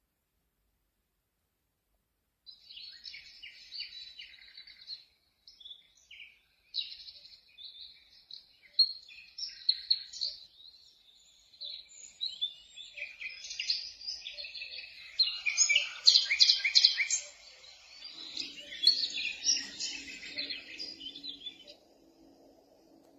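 Birdsong sound of a Dreamegg Pocket Sleep 1 mini white noise machine: many overlapping bird chirps and twitters begin about two seconds in. Near the end a lower steady hum joins the chirping, before the birdsong stops.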